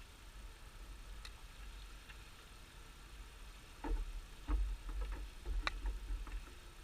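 Scattered light clicks and knocks, most of them clustered past the middle, over a low rumble: the handling of wooden beehive parts during an inspection.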